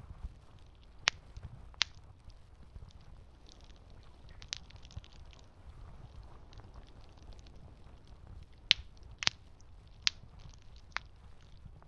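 Campfire crackling, with sharp pops at uneven intervals, several of them in the last few seconds, over a steady low rumble.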